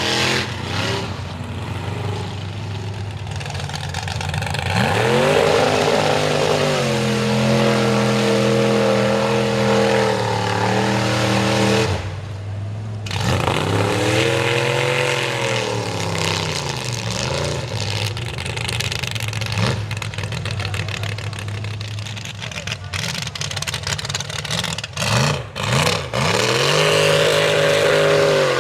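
Mega truck engine revving hard and repeatedly, climbing and falling in pitch as it works through the mud bog. It drops off briefly about twelve seconds in and gives a run of quick, choppy blips near the end before climbing again.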